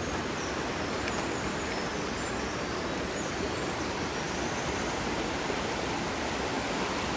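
A river flowing steadily: an even rush of water.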